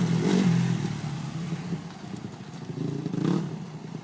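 Dirt bike engine revving, its pitch rising and falling; it eases off in the middle and revs up again near the end.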